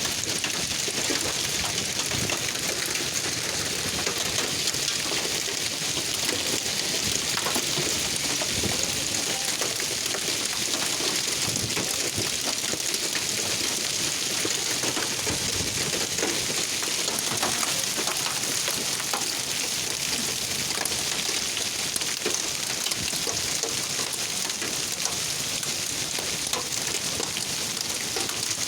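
Hailstorm with heavy rain: a steady dense hiss of precipitation striking surfaces, with many small hits throughout.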